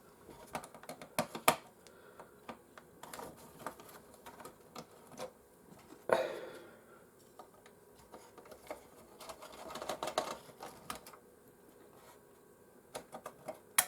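Irregular light clicks and taps of hand disassembly on a PlayStation 4: a screwdriver and small Phillips screws against the plastic casing and parts being handled, with a few louder knocks.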